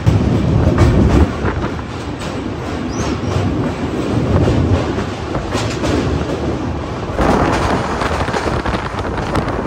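Moving passenger train heard from aboard: a steady rumble with the clatter of wheels over rail joints. About seven seconds in, a louder rushing hiss joins it.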